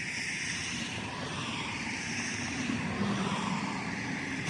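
Steady engine drone of a passing river cargo ship, with a hiss over it, slowly growing louder.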